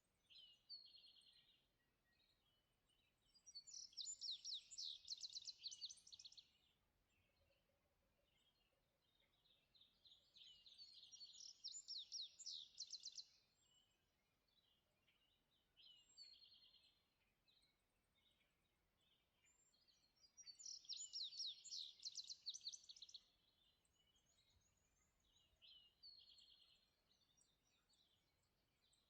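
Songbirds singing at dawn: a rapid, high-pitched trilled song of about three seconds repeats three times, with shorter high chirps in between.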